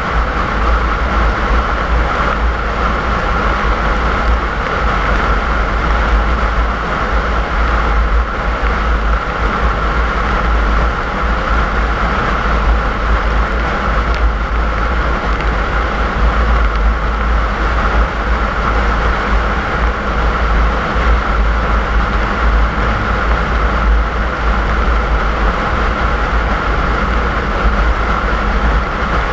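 Steady road and engine noise of a moving car: a constant deep rumble with a steady higher hiss over it, unchanging throughout.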